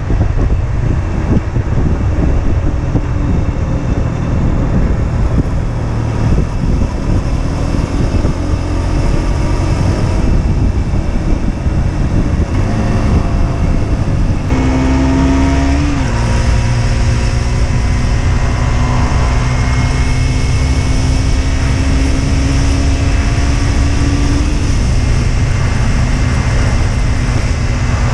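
Husqvarna Svartpilen 125's single-cylinder engine running under way, mixed with heavy wind noise on the helmet-mounted microphone. The engine note climbs in pitch, changes abruptly about halfway through, then holds a steady note that rises slowly before easing off near the end.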